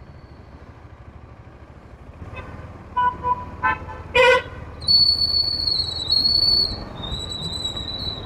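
Street traffic heard from a moving motorcycle, with several short vehicle horn toots about three to four seconds in. Then a long, high-pitched whistle, held for about two seconds and repeated a little lower.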